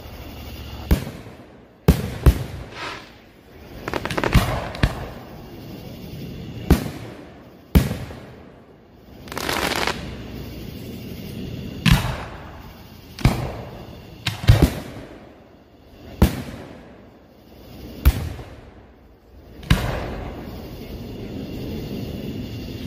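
Fireworks bursting: sharp bangs about every one to two seconds, some in quick pairs, with a continuous hiss and rumble between them.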